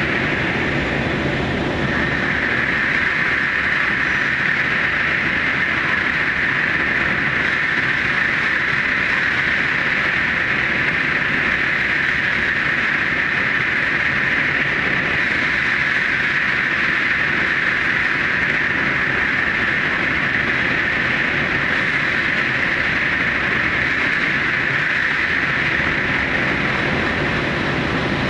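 Steady running noise of a Super Hakucho electric train at speed in the Seikan Tunnel, heard from the front of the train, with a constant high hiss and rumble and no breaks. The recording is sped up about 2.15 times.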